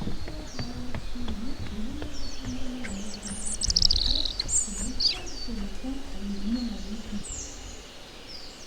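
Songbirds chirping and calling: many short high chirps, with a louder run of song about three to four seconds in. A low wavering hum lies underneath and fades out near the end.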